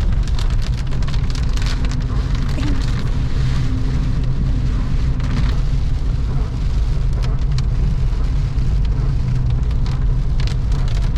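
Car driving, heard from inside the cabin: a steady low rumble of engine and tyres, with many small ticks and patters scattered over it.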